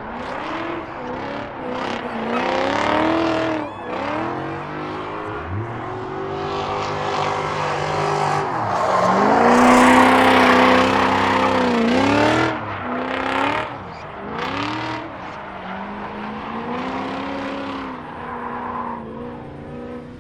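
Drift cars' engines revving up and down again and again as they slide through the course, with tyre squeal. The loudest stretch comes about ten seconds in, as the engine holds high revs under a rush of tyre noise.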